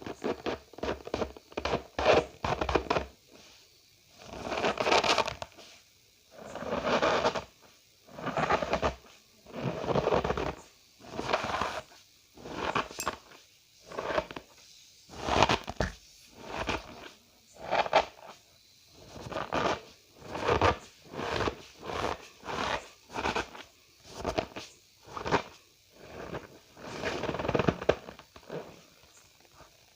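Cornstarch powder squeezed and pressed by hand, a squeaky crunch with each press, repeated about once every one to two seconds with short quiet gaps between.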